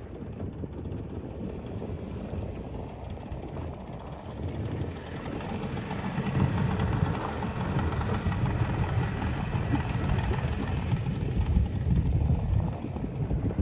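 Boat's outboard motor running with a steady rumble, growing louder about six seconds in.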